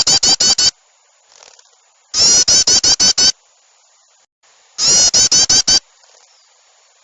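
Looped bird-lure recording of harsh chattering birdcalls, each burst a rapid run of about six notes a second lasting about a second. The same burst repeats about every two and a half seconds: one ends just after the start, then come two more, with faint softer calls between them.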